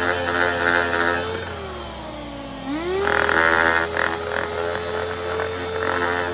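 Dual-action sander running with a steady whine while sanding a steel axe head, with a rasping scrub when the pad bears on the metal. About a second and a half in it winds down, then spins back up just before three seconds and sands on.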